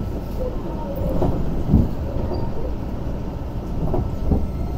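Keio 8000 series electric train running, heard from inside the car: a steady rumble of wheels on rail, with a few sharp knocks as the wheels cross rail joints and points.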